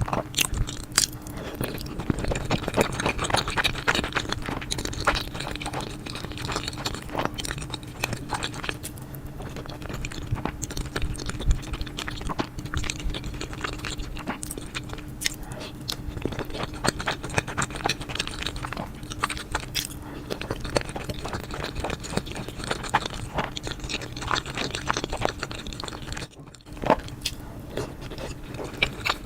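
Close-miked eating: continuous chewing with irregular crunchy bites and wet mouth clicks. A faint steady hum runs underneath.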